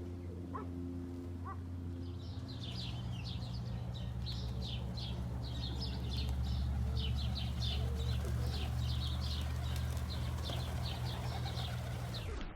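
Birds chirping in quick, repeated high notes, starting about two seconds in, over a steady low hum.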